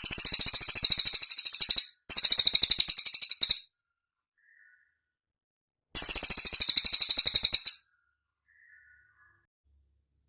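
Cililin singing: three bursts of very rapid, high-pitched trilled notes, each about one and a half to two seconds long, the third coming after a pause of a couple of seconds.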